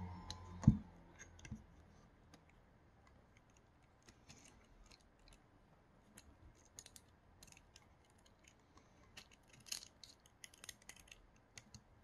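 Small clicks and taps from the parts of a 3D-printer extruder being handled, with one sharper knock about a second in and bunches of quick clicks around the middle and near the end.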